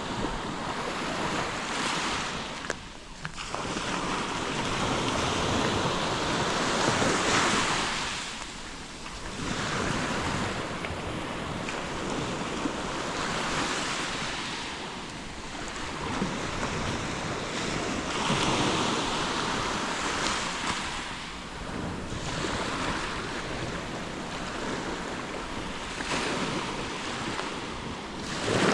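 Black Sea waves breaking and washing on the beach, the surf swelling and falling every few seconds, with wind buffeting the microphone.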